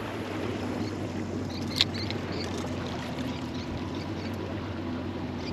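Boat engine running steadily at a low hum, with water noise around the hull and a brief sharp click about two seconds in.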